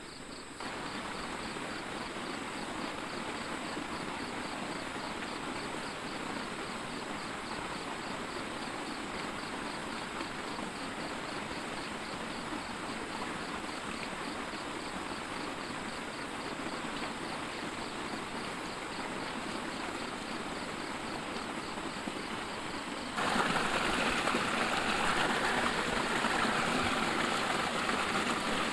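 Steady heavy rainfall, a dense even hiss of rain, jumping abruptly louder about 23 seconds in.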